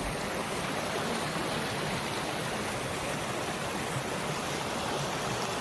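Forest stream flowing steadily over rocks, a constant rush of water.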